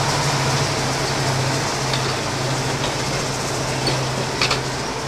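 Passenger coaches rolling slowly past on the rails, over a steady low drone from a diesel locomotive engine. A couple of sharp clicks, near the middle and again near the end, come from the wheels.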